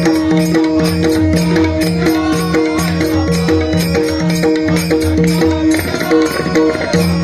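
Instrumental interlude of a bhajan: a drum and small hand cymbals keep a quick, steady beat under a short two-note melodic figure that repeats evenly.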